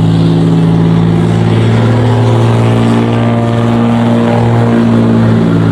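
Dodge Ram pickup's engine running hard under full load as it drags the weight sled down the track, a loud steady drone whose pitch shifts a little midway.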